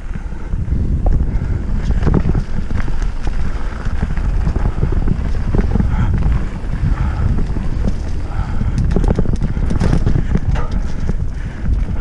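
Mountain bike riding over a rocky trail: the tyres rumble and the bike rattles and clatters over rocks, with wind buffeting the microphone.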